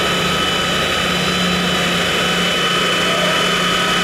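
An engine running steadily, with constant high whining tones over its drone and no change in pitch.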